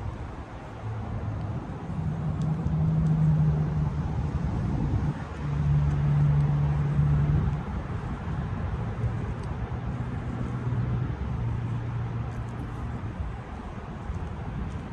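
A motor vehicle engine running, its hum holding steady and then stepping between a lower and a higher pitch, loudest twice around two to seven seconds in, over steady outdoor background noise.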